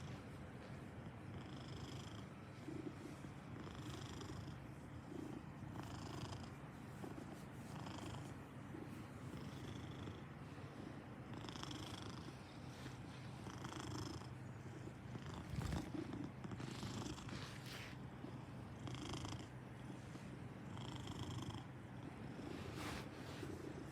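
Maine Coon cat purring steadily up close, the purr swelling and easing about every two seconds with each breath.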